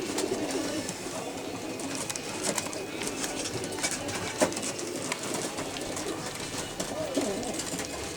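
Racing pigeons cooing in a loft, low wavering calls overlapping one another, with scattered sharp taps and clicks among them.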